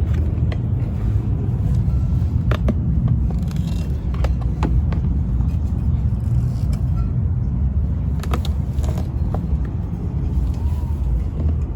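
A steady low rumble, with scattered sharp clicks and knocks as a swivel boat seat is twisted and fitted onto its mounting base.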